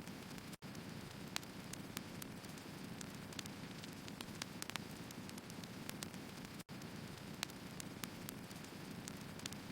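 Firewood burning: a steady low rush of flames with irregular sharp crackles and pops from the logs, several a second. The sound cuts out for an instant twice, about half a second in and near the end.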